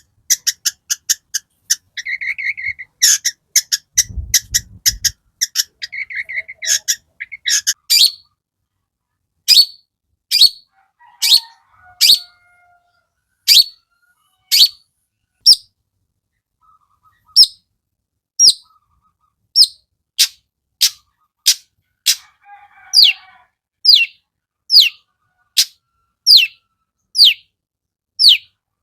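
Long-tailed shrike (cendet) singing loudly. The first several seconds are a rapid scratchy chatter, followed by a long run of sharp, high, downward-sliding calls at about one a second.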